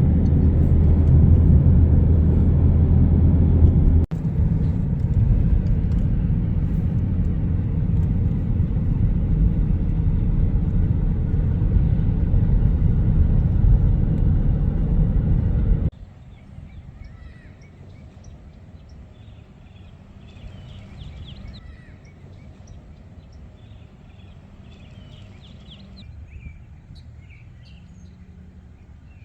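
Loud, steady low vehicle rumble for about the first sixteen seconds, then it cuts off suddenly to a quieter outdoor background with birds chirping.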